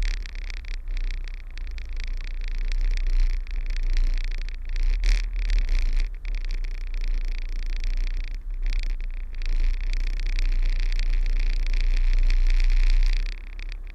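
Kenworth truck's diesel engine running steadily at low revs under a hiss of noise, with the loudness dropping away near the end.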